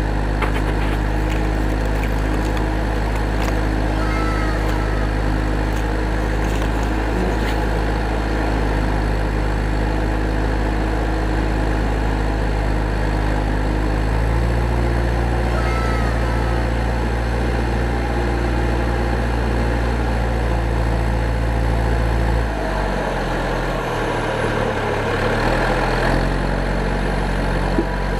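A vehicle engine running steadily with a low hum. The engine note shifts about halfway through and briefly drops away near the end. A couple of faint short chirps sound over it.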